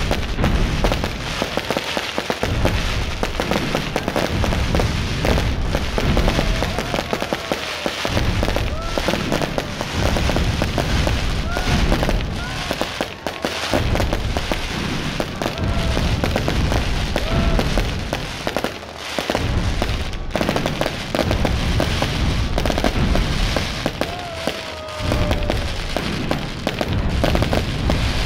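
Aerial fireworks display: a dense, continuous barrage of bangs and crackling bursts, with a few short whistling tones over it.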